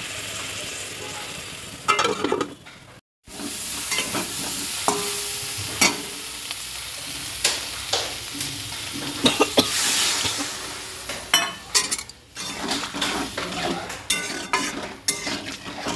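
Potato and cauliflower pieces sizzling as they fry in a pan, with a metal spatula scraping and knocking against the pan as they are stirred. The sound drops out briefly about three seconds in.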